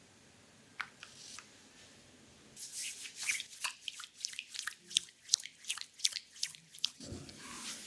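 Oiled hands working on bare skin during an aroma-oil abdominal massage, making a run of wet, sticky clicks about three a second. Near the end the clicks give way to a softer rubbing.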